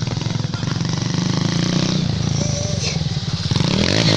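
Motorcycle engine running at idle with a fast, even beat, then revved up near the end, its pitch rising sharply.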